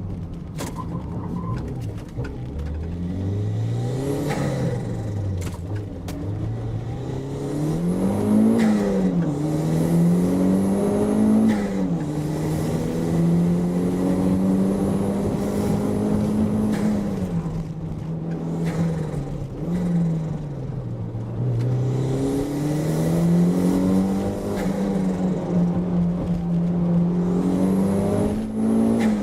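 Toyota MR2 engine driven hard. Its note climbs under acceleration and drops at each lift or gear change, again and again, with a longer steady stretch in the middle.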